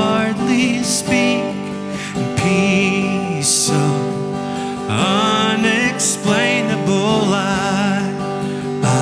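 Worship song music: acoustic guitar with a wavering sung melody over sustained chords.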